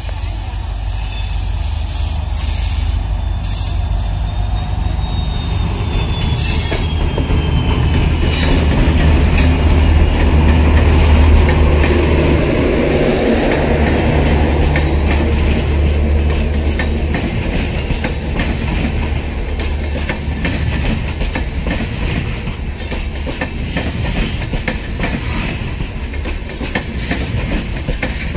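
WDP4B diesel locomotive's EMD 16-cylinder two-stroke engine running past with a heavy rumble that is loudest a little over ten seconds in, and a high whine that falls in pitch as it comes by. The passenger coaches then roll past with a steady clickety-clack of wheels over rail joints as the train arrives at the station.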